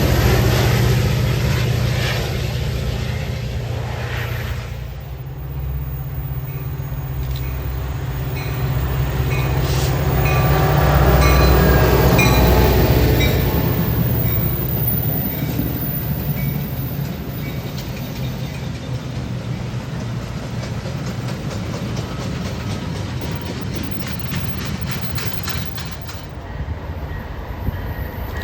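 Train passing on the line: a continuous low rumble that swells to its loudest about a third of the way through, then a long run of evenly spaced wheel clicks as the cars roll by.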